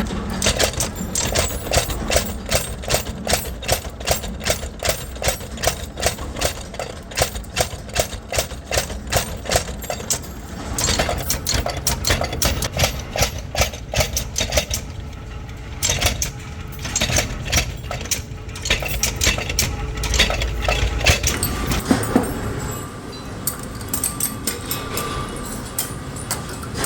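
Metalworking machinery striking metal in a fast, even rhythm for about ten seconds, then irregular clanks and knocks over a steady machine hum.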